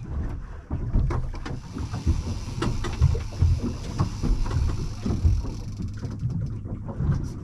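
Irregular low rumble with soft thumps and faint knocks aboard a small boat lying at anchor on a calm sea, with no engine running.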